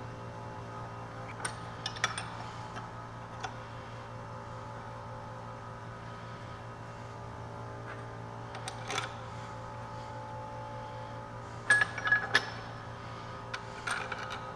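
Metal parts and tools clinking and knocking on a workbench now and then over a steady low hum, with a quick, louder cluster of clinks about twelve seconds in.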